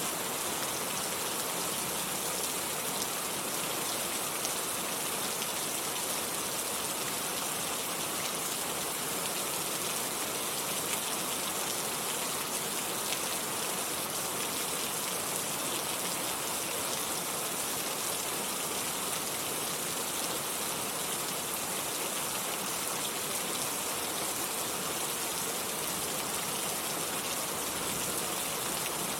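Steady rain falling, an even hiss with most of its energy high up, unchanging throughout.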